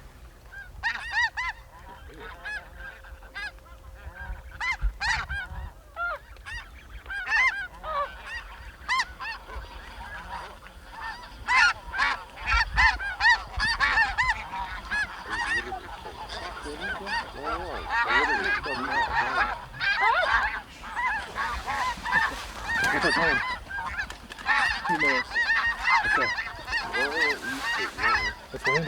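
A flock of snow geese calling: many overlapping high-pitched yelping honks that build up, growing denser and louder about halfway through.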